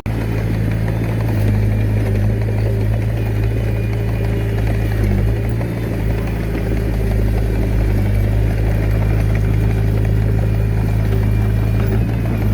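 Diesel engine of a Komatsu D21A mini bulldozer running steadily at one speed, with some clatter.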